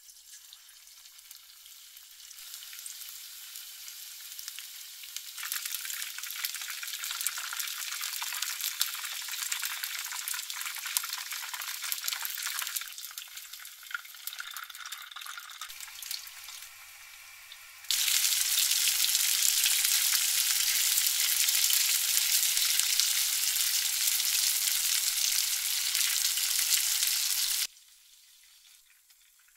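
Battered chicken pieces frying in hot oil in a frying pan: a dense crackling sizzle that jumps in level at a few cuts. The loudest stretch, in the second half, is oil that is too hot, and it cuts off suddenly near the end.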